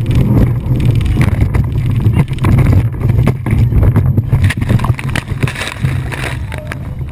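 Motorboat on the water heard through a camcorder microphone: a loud, rough low rumble with many knocks and thumps.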